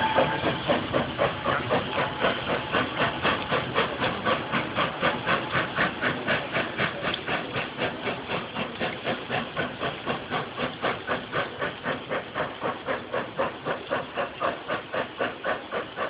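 Steam locomotive working, its exhaust chuffing in a steady, even rhythm of about three beats a second, slowly fading.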